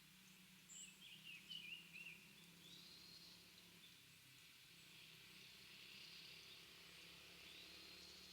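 Faint calls of small wild birds: a quick run of chirping notes in the first two seconds, then a few single high call notes, over a faint steady low hum.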